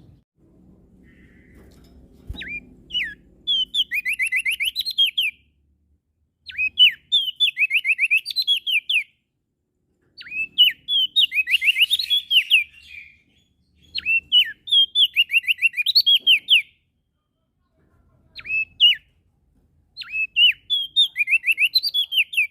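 A prenjak daun songbird singing loud, repeated phrases of rapid down-slurred whistled notes, each phrase a couple of seconds long with short pauses between them.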